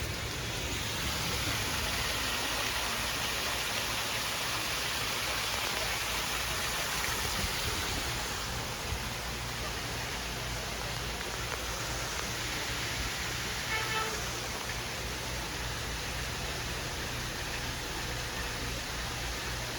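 Hampton Bay Gazebo II ceiling fan running, a steady rushing air noise over a low hum; the fan has a bad capacitor. A brief pitched tone sounds about fourteen seconds in.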